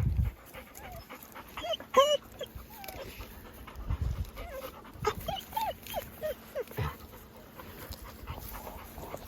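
Excited dogs whining and yelping: short high cries that rise and fall in pitch, one cluster about two seconds in (the loudest) and another around five to six seconds, with a few dull thumps between.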